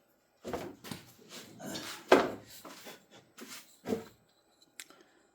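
Irregular knocks and rustling as wooden pieces and tools are handled and set down on a workbench, with the sharpest knock about two seconds in; quiet near the end.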